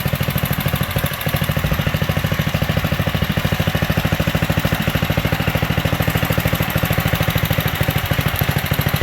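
The 7 hp Briggs & Stratton single-cylinder engine of a 1967 Unico riding tractor running steadily with an even, rapid pulse.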